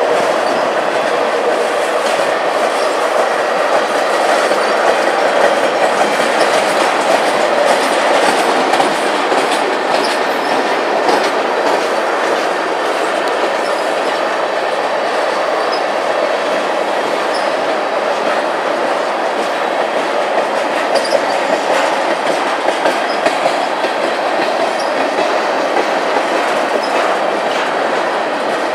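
Railway tank cars of a slow freight train rolling past: a steady rumble of steel wheels on rail, with light irregular clicks.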